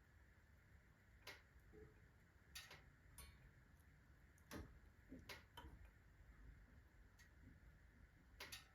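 Faint, irregular sharp ticks and clicks, about eight in a few seconds, from the iron body of a fireplace stove working as it expands with the rapid heating of a fresh fire of kindling.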